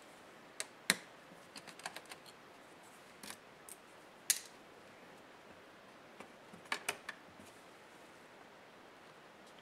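Irregular sharp clicks and taps of small plastic and metal laptop parts being handled and pried apart by hand. The loudest comes about four seconds in, a quick pair follows near seven seconds, and the last two seconds are nearly still.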